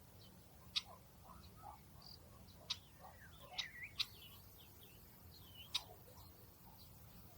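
Small birds chirping faintly: about five short, sharp chirps scattered through, with a brief run of twittering in the middle, over a low steady background rumble.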